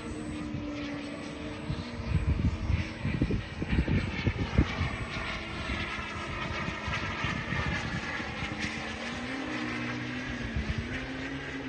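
Twin Kingtech K45 model turboprop engines on a radio-controlled OV-10 Bronco running with a steady whine and propeller hiss, the pitch wavering up and down near the end. Wind buffets the microphone about two to five seconds in.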